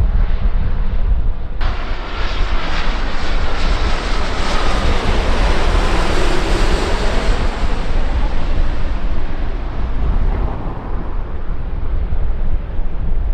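Airliner's engines passing close by: the noise jumps up suddenly about one and a half seconds in, swells to a peak around the middle and then eases away. Wind rumbles on the microphone throughout.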